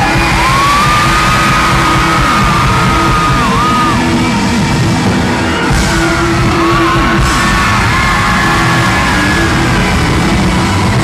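Loud live pop music played through an arena PA, with a high voice holding long, wavering notes and the audience yelling and cheering over it.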